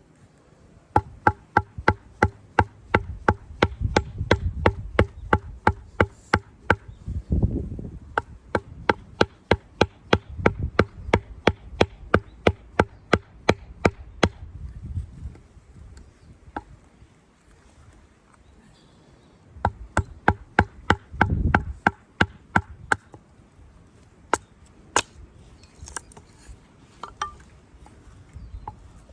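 Rapid, even blows of a tool chopping wood, about three a second, each with a short ringing tone. It goes in a long run, pauses, then a shorter run, with a few single hits near the end.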